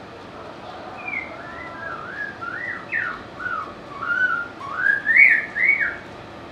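White-rumped shama singing a varied phrase of clear whistled notes that swoop up and down, starting about a second in and loudest near the end before it stops.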